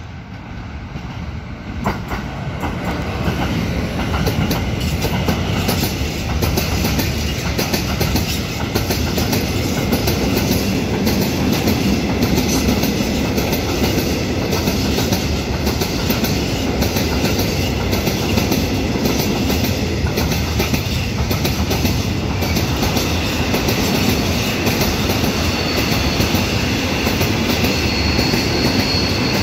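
DB Cargo freight train, led by a Vectron locomotive, approaching and passing close by. The sound swells over the first few seconds, then the open goods wagons rumble past with a steady clatter of wheels over the rail joints. A thin high wheel squeal comes in near the end.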